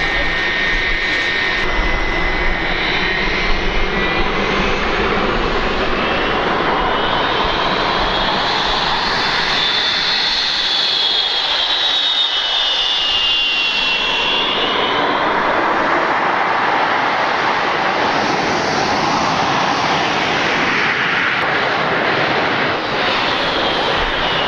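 Jet aircraft engine running: a steady rushing roar with a high whine that climbs over the first several seconds, holds, then drops away about two-thirds of the way through.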